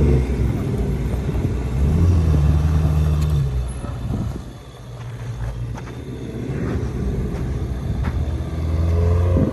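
Ferrari engine running under way, a deep steady hum that eases off about halfway through and then builds up again toward the end.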